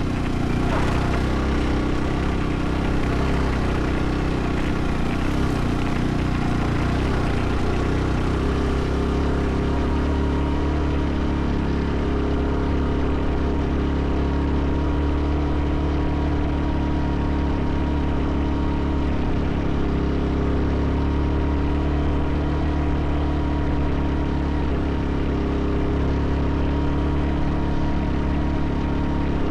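Motorcycle engine running at a steady speed, an even drone with a strong low rumble.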